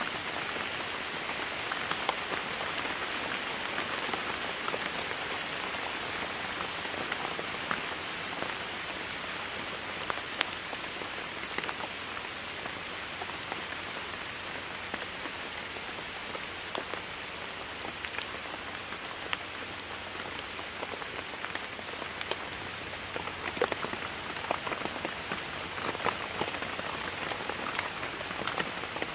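Steady rainfall, a continuous patter with many individual drops ticking and splashing on a surface.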